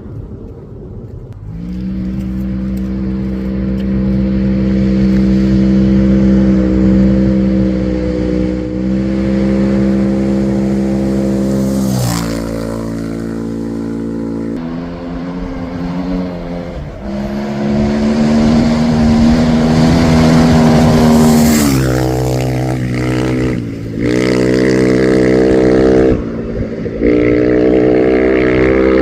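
Rally-raid competition vehicle's engine running hard under load, its pitch holding steady for several seconds at a time. The pitch drops and picks up again at a series of gear changes, from about twelve seconds in to near the end.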